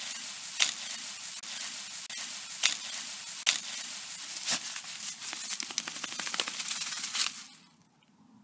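Footsteps crunching through dry undergrowth about once a second over a steady rustle. The sound stops abruptly about seven and a half seconds in, leaving near silence.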